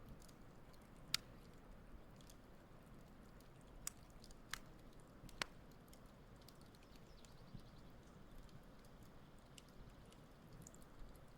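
Wood campfire burning faintly with soft crackling and four sharp pops in the first half.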